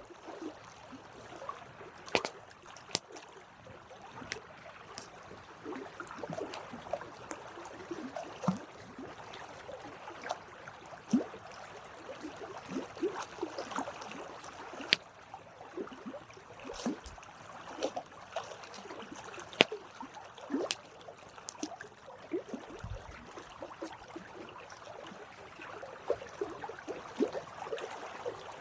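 Campfire burning, wood crackling and popping at irregular intervals over a soft steady hiss of flame.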